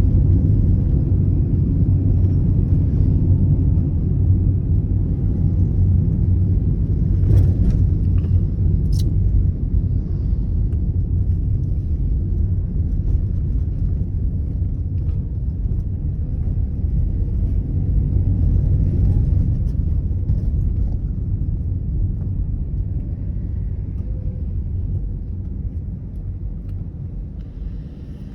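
Car driving: a steady low rumble of engine and road noise, with a single click about seven seconds in. The rumble grows quieter over the last few seconds.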